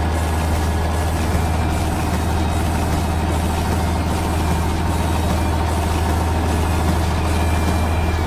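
Heavy work-vehicle engine idling steadily with a deep, even hum.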